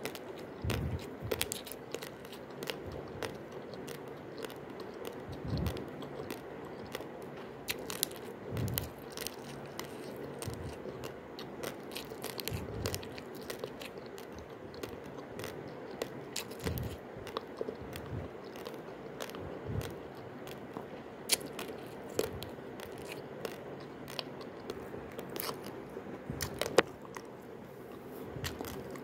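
Raw basmati rice grains being crunched and chewed: an irregular run of short, dry cracks and crunches with soft thuds of biting.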